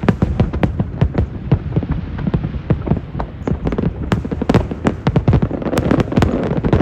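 Fireworks going off in rapid, irregular succession, several sharp bangs a second, which thicken into a denser crackling rumble near the end.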